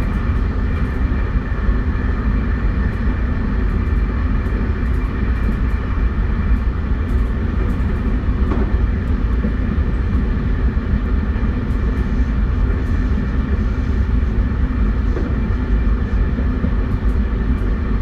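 JR West 271 series electric multiple unit running at steady speed: wheels rumbling on the rails under a steady, unchanging whine from its Hitachi SiC inverter drive.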